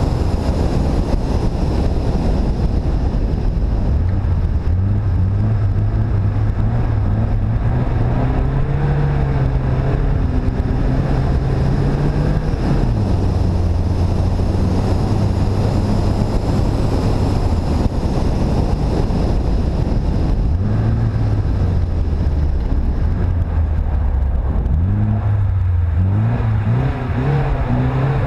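Car engine running under load while driving, its pitch climbing for several seconds, dropping sharply about halfway through, then rising and falling again as the driver accelerates and eases off. Wind buffets the microphone, which is mounted outside on the bonnet.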